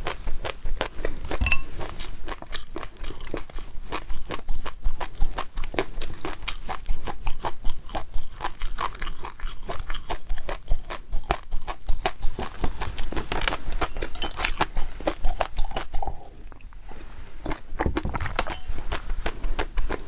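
Close-miked mouth sounds of someone chewing food: a rapid, dense run of wet clicks and smacks, with a brief lull about sixteen seconds in.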